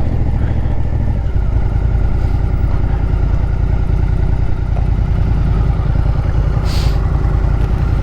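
Motorcycle engine running steadily at low revs, with an even, rapid pulsing rumble. A brief hiss comes about seven seconds in.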